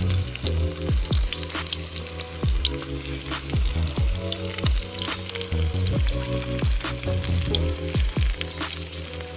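Chicken tempura frying in hot oil: a steady sizzle with scattered small crackles.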